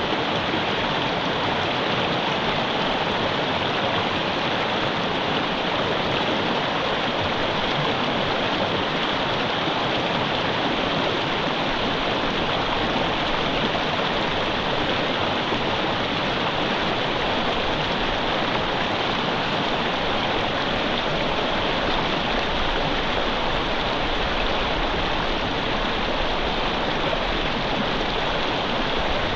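Mountain river water rushing over rocks, a steady, unbroken flowing noise.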